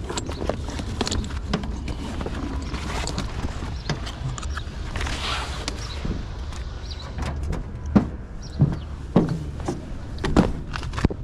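Bungee cords and tarp being unhooked and handled on a flatbed load: scattered knocks and clacks, with four sharp ones in the last few seconds and a brief rustle about halfway through, over a steady low rumble.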